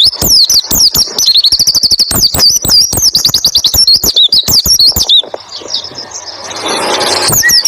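Pleci (white-eye) song: a fast, dense run of high chirps and trills with rapid repeated notes, breaking off about five seconds in. A rustling noise then builds for about two seconds before the chirping starts again near the end.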